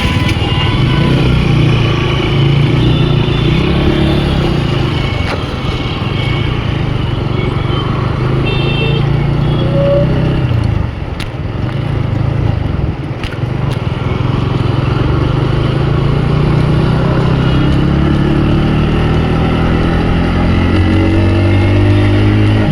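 Motorcycle engine running under way in traffic, with road and wind noise; near the end its pitch climbs as it accelerates.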